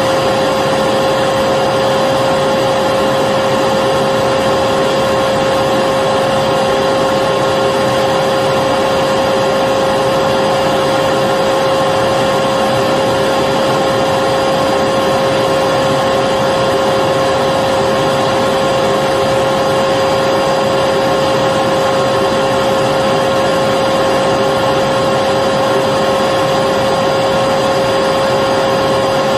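Electric vacuum cleaner running steadily, with an even rush of air and a constant motor whine that never changes.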